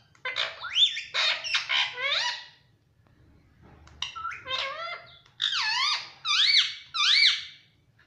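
Ringneck parrot giving high-pitched squawks and chattering calls, sharply rising and falling in pitch, in two runs with a short pause about three seconds in.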